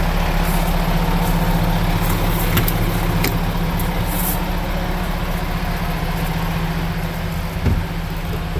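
MAN 18.440 truck's diesel engine idling steadily, with a couple of light clicks about two and a half and three seconds in and a short low thump near the end.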